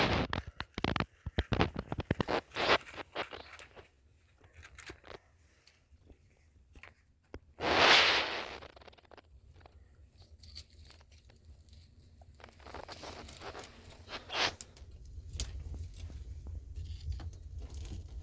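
Scattered crunching, scraping and clicking handling noises, busy at first and sparser later, with one louder rushing scrape lasting about a second, about eight seconds in.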